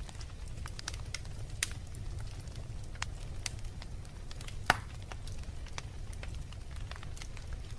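Wood fire in a fireplace crackling: irregular sharp pops and snaps over a low steady rumble, with one loud pop a little past halfway.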